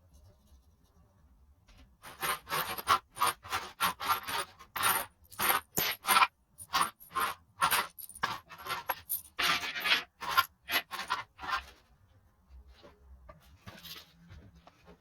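Small metal parts clinking and scraping against each other in a quick, irregular run of sharp metallic clicks. It starts about two seconds in and stops a few seconds before the end.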